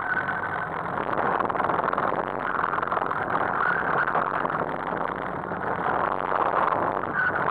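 Rover Metro GTi's 1.4-litre K-series 16-valve four-cylinder engine running under changing throttle as the car is turned through a tight course, heard from inside the cabin.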